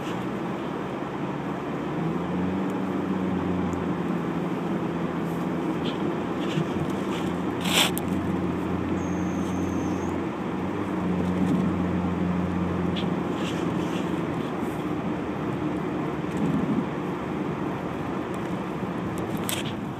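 Car engine and road noise heard from inside the cabin while driving, with a steady engine hum setting in about two seconds in and fading out near sixteen seconds. A few brief clicks, the sharpest about eight seconds in.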